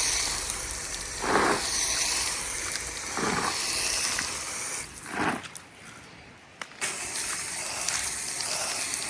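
Water spraying from a hose onto a freshly laid dry-pour concrete slab, a steady hiss that dips briefly just past the middle, soaking the dry mix so the cement sets until the slab is saturated.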